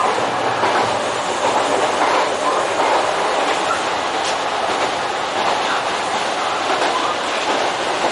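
Kintetsu Nagano Line electric commuter train running along the track: a steady rumble of wheels on rail with a few faint rail-joint clicks, heard from inside the train.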